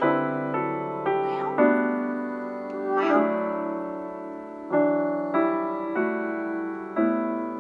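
Piano backing track playing the song's closing instrumental: slow sustained chords struck one after another, each fading before the next.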